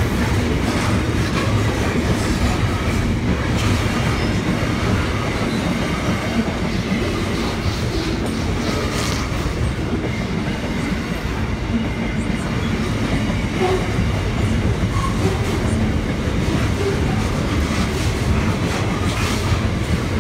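Container freight train wagons rolling past close by: a steady rumble of steel wheels on rail, with irregular clicks from the wheels over rail joints.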